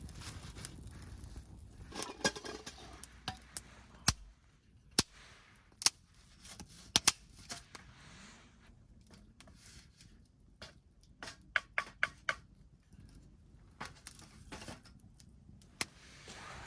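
Irregular sharp clicks and knocks, several in quick succession about eleven to twelve seconds in, as hard objects are handled.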